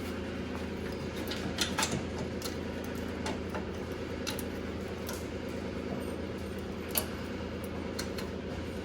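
Scattered light clicks and taps of tools and metal parts being handled, with one sharper click about seven seconds in, over a steady low hum.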